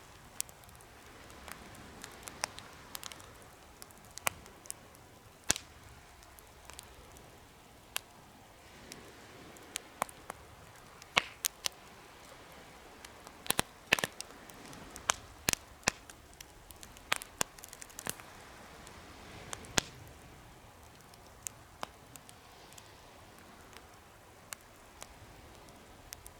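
Campfire crackling, with sharp, irregular pops and snaps over a soft steady hiss, a few louder cracks bunched in the middle.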